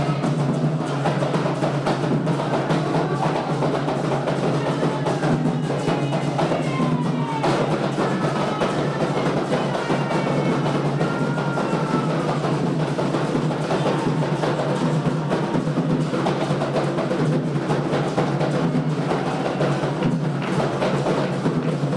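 Atabaque hand drums of a Candomblé roda playing a continuous, dense rhythm for Xangô.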